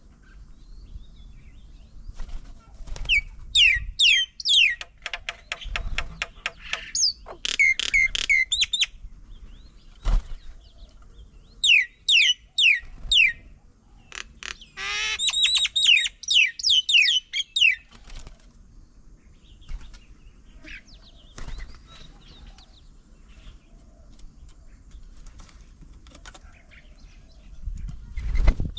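Songbirds calling in several bursts of quick, down-slurred whistled notes, with a fast dry rattling chatter about six seconds in.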